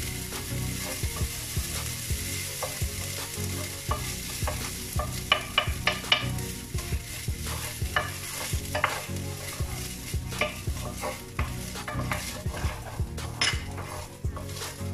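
Rice and vegetables frying with a steady sizzle in a large pan while a wooden spoon stirs them, scraping and knocking against the pan at irregular moments.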